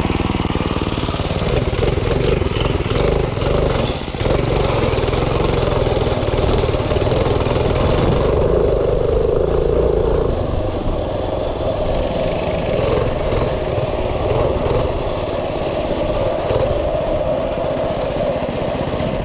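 Minibike engine running steadily at high revs while being ridden. It dips briefly about four seconds in and eases slightly after about ten seconds.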